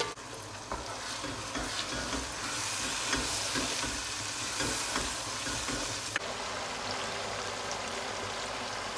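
Wet blended pepper, onion, ginger and garlic paste sizzling steadily in hot palm nut oil with tomatoes and onions, stirred with a wooden spoon that gives a few light knocks against the pot.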